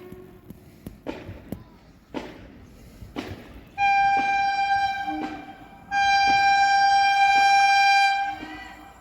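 Train horn sounding two long blasts at one steady pitch, the second longer than the first, as an express train runs through a station. A few sharp clicks come before the horn, typical of wheels passing over rail joints.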